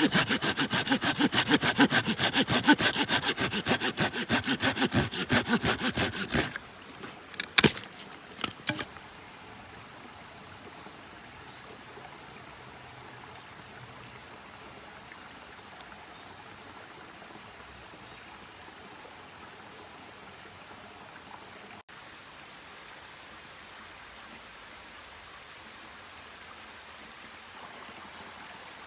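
Hand saw cutting wood in fast, even rasping strokes that stop abruptly after about six seconds, followed by a few sharp knocks, then only a faint steady hiss.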